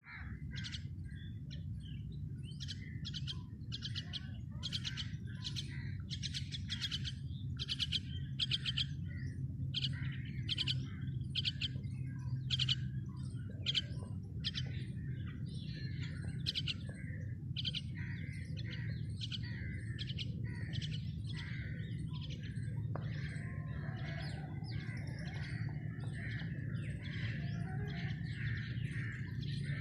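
Small birds chirping: short, sharp, high chirps repeating about once a second at first, becoming denser, overlapping chatter from several birds in the second half, over a steady low rumble.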